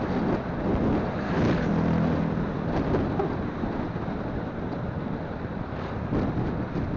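Motorcycle on the move: wind buffeting the phone's microphone over the low rumble of the engine and road.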